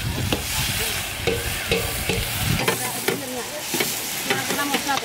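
Onion and green chili paste sizzling as it fries in a large rectangular metal pan over a wood fire, while long-handled metal spatulas scrape and stir it across the pan bottom with repeated short scrapes and clinks.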